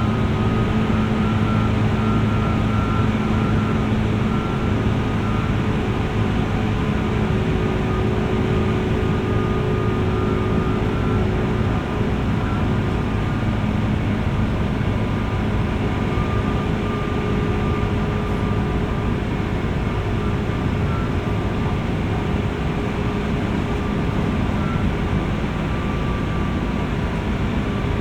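Inside a JR West 201 series electric multiple unit motor car while it runs between stations: steady rolling and running noise with a few faint steady hums, heard from above the car's armature chopper equipment.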